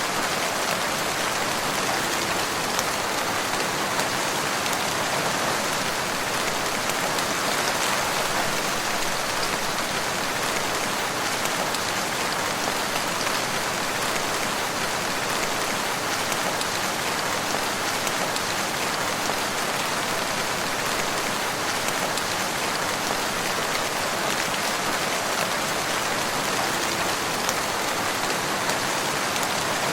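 Steady rain falling in woodland, an even hiss of many drops with faint individual drop ticks and no pauses or changes.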